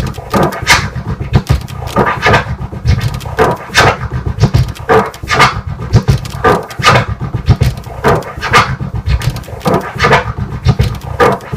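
Turntable scratching of a kick-and-snare drum sample, repeating a hybrid combo of a four-click orbit and a five-click tear. It makes quick, rhythmic, pitch-bending strokes about twice a second.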